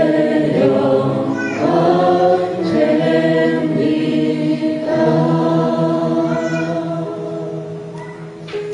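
Group of voices singing a worship song together in long held notes, fading somewhat near the end.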